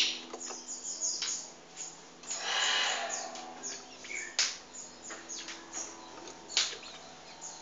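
Small birds chirping: a series of short, sharp, high calls, with one longer, harsher call about two and a half seconds in.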